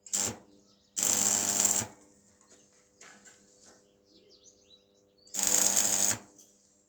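A power tool run in three short bursts, the first very brief and the other two under a second each, with a faint steady hum between them.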